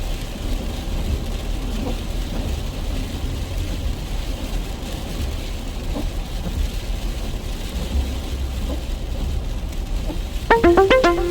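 Steady low rumble of a car driving, with a hiss of rain. Background music comes in near the end.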